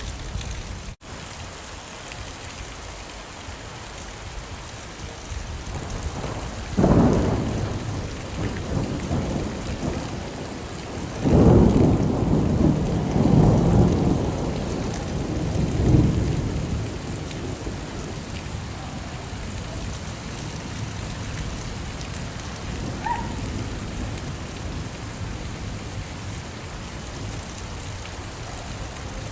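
Steady rain with thunder: a short rumble about seven seconds in, then a longer, louder rumble from about eleven to sixteen seconds. The sound drops out briefly about a second in.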